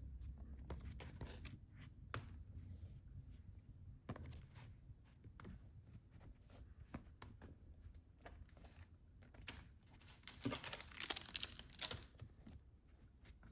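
Manga volumes and their wrapping being handled: scattered crinkling, tearing and rustling of plastic and paper, busiest and loudest about ten to twelve seconds in.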